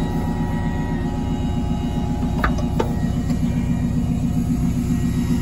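A steady low rumble with an even hum, like a car engine idling. Two sharp clicks come about two and a half seconds in as the bonnet catch is released.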